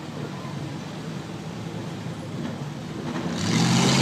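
Old car engine running at low revs with a steady hum, swelling louder about three seconds in.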